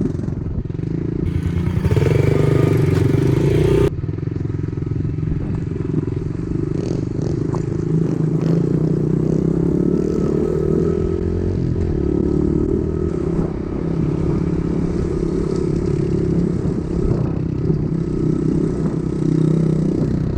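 Dirt bike engine running while riding, heard from the bike with its note wavering as the throttle changes. A louder stretch ends abruptly about four seconds in.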